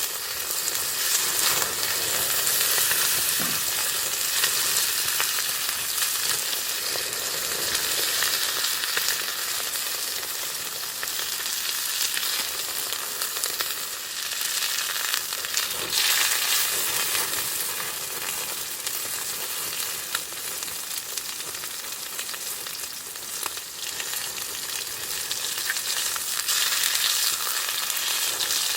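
Chicken frying in a pan, sizzling steadily in its own fat with fine crackling pops.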